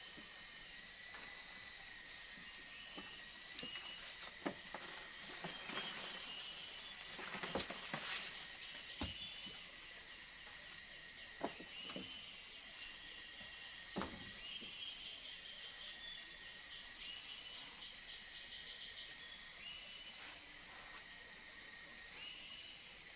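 Jungle insects, crickets among them, sing steadily in several high-pitched tones. A handful of sharp knocks or snaps come between about four and fourteen seconds in.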